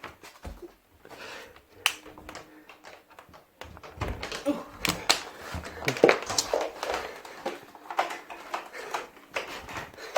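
Irregular clicks, knocks and rattling handling noises, with a few low thumps.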